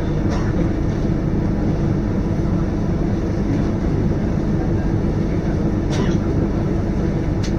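Diesel engine of a Scania K230UB single-deck city bus running steadily under way, heard from inside the cabin as a constant low drone. A few brief clicks or rattles come about half a second in, at about six seconds, and near the end.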